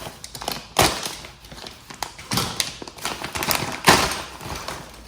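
Handling noise from unboxed RC kit parts: a series of light taps and knocks, a few sharper ones, over rustling.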